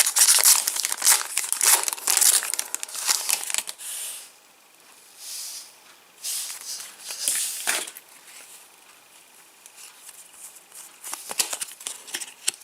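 Foil wrapper of a Match Attax trading card packet crinkling and tearing as it is opened. The noise is thick for the first four seconds, then comes in a few shorter rustles.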